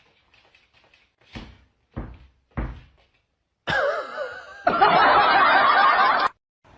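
Three dull thumps about half a second apart, then a loud wavering sound lasting about two and a half seconds that cuts off suddenly.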